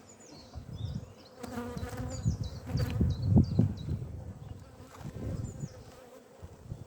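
Honeybees buzzing around an open hive as its frames are handled, with low thumps and rumble mixed in; the activity is loudest a little past the middle.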